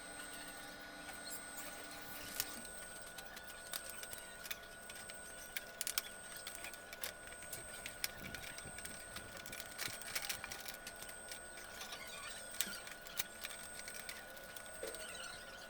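Faint, scattered clicks and light taps of small hand tools on a circuit board during solder repair, over a steady faint high-pitched electrical whine.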